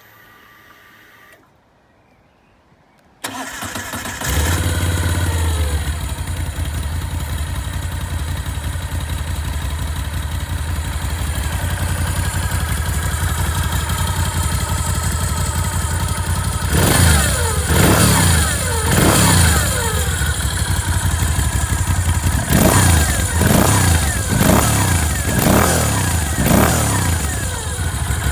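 Moto Guzzi V7 Racer's air-cooled V-twin, breathing through Arrow aftermarket end cans, cranked on the starter about three seconds in. It catches and settles into a steady idle. In the second half it is given several short throttle blips, the revs rising and falling in two groups.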